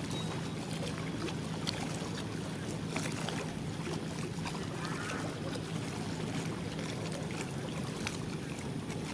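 A steady low mechanical hum over a constant wash of outdoor noise, with a few faint clicks.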